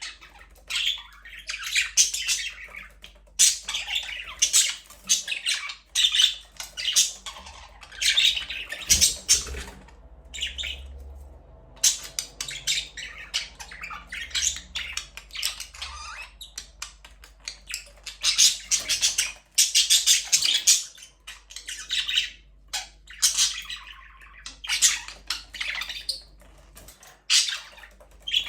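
Several budgerigars chirping and chattering in repeated bursts of high-pitched calls, with short pauses between them.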